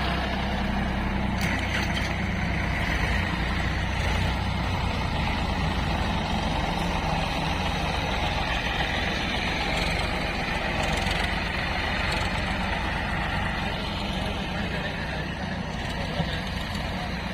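Heavy diesel engine of a loading machine running steadily at a constant speed.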